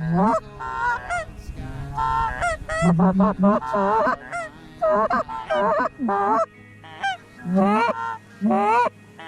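Geese honking: a rapid string of short honks and clucks in clusters, several a second.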